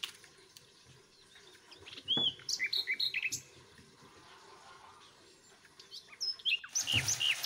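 Small birds chirping: a run of quick, falling chirps about two seconds in and again near the end. Near the end, the sizzle of meat and potatoes frying in a pan comes in.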